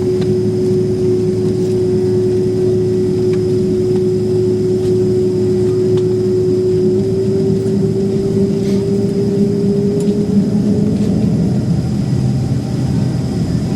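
Boeing 767-300ER cabin noise with the jet engines at idle as the airliner holds or taxis just before takeoff: a steady low hum with a steady tone over it that rises slightly and fades out about ten seconds in.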